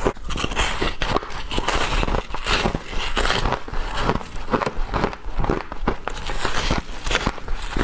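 Bites of frost being crunched and chewed: a continuous run of crisp, crackly crunches.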